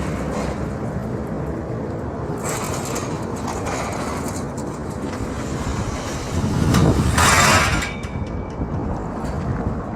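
Road traffic noise with a steady rumble, and a vehicle passing close by about seven seconds in, the loudest moment.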